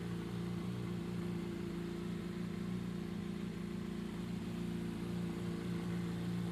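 2007 Honda CBR600RR's inline-four engine idling steadily on its start-up check after an engine overhaul.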